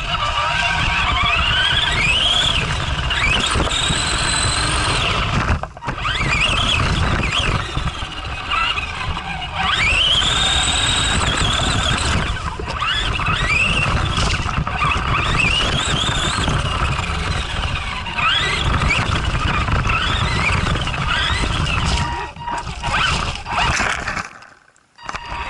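Arrma Granite RC monster truck's electric motor whining, rising in pitch again and again as it accelerates in short bursts, over a steady low rumble. The sound cuts out briefly about six seconds in and dips near the end.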